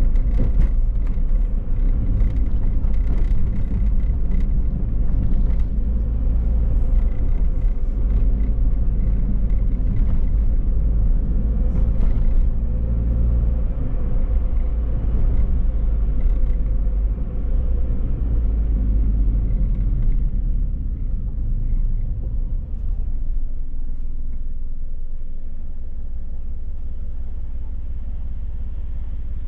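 A car driving on city streets: a steady low rumble of engine and road noise. It grows quieter and smoother about two-thirds of the way through.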